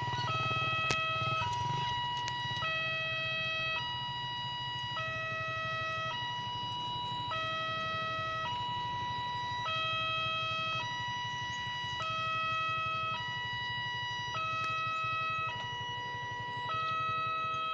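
Railway level-crossing warning alarm sounding a steady two-tone electronic signal. It switches between a lower and a higher tone about every second, warning that a train is approaching and the barrier is closing. A low steady hum runs underneath.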